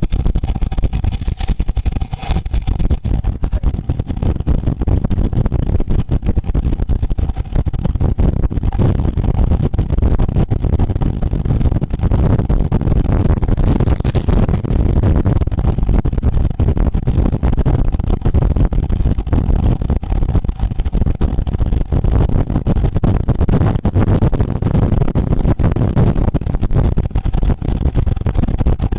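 Loud, steady rumble of wind rushing over the microphone of a camera carried on a racing bicycle at speed, with road noise underneath.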